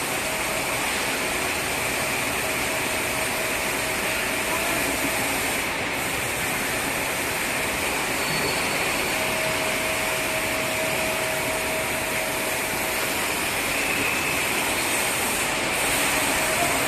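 Fibre cement board production line machinery running: a steady mechanical din, with a faint tone that fades in and out.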